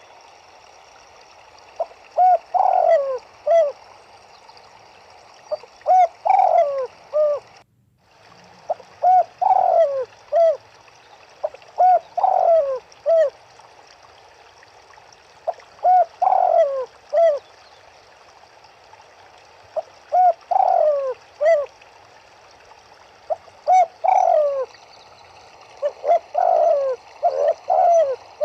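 Doves cooing: short phrases of several coo notes repeated every few seconds, over a steady hiss of running water. The sound cuts out for a moment about a third of the way in.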